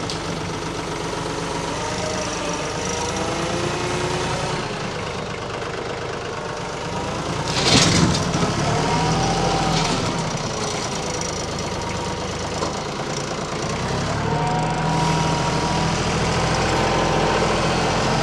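Compact diesel tractor engine running, its speed rising and falling as it works, with a loud sudden noisy burst about eight seconds in.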